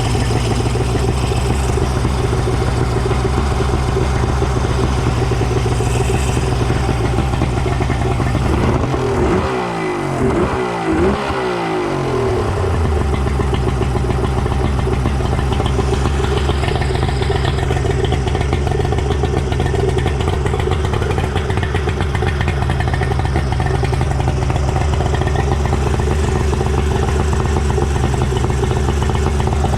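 Suzuki DT65 three-cylinder two-stroke outboard engine running steadily. Around ten seconds in the revs change briefly before it settles back to an even run. It is running cleanly with its fuel pump refitted, which the owner calls a fix for its backfiring and poor pickup.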